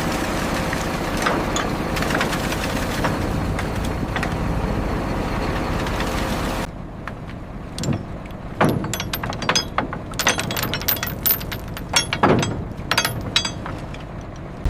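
A heavy engine runs steadily with a constant mechanical din. It cuts off abruptly about halfway, and a run of sharp metallic clanks and knocks follows, some of them ringing.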